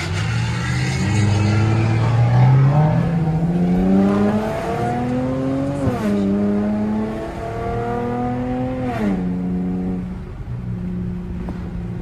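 V6 car engine accelerating hard through the gears, heard from inside the cabin: the revs climb, fall with an upshift about six seconds in, climb again and fall with another upshift about nine seconds in, then hold steady.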